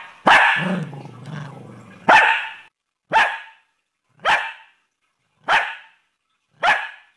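A small dog barking about six times, evenly spaced about a second apart, the first bark trailing into a short growl. The dog is counting out the answer to "three times three", one bark per count.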